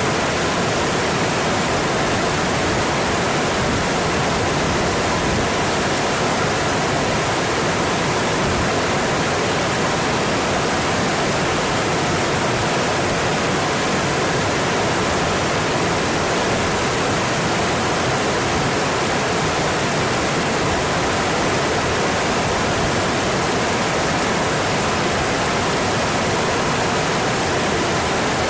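Mountain stream rushing over its rocky bed, a steady, even water noise with no change.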